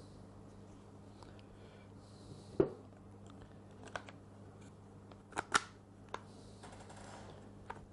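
A few sharp clicks and knocks of hammer parts being handled during reassembly of a Bosch GSH 5 demolition hammer, the loudest about two and a half seconds in and a close pair about five and a half seconds in, over a steady low hum.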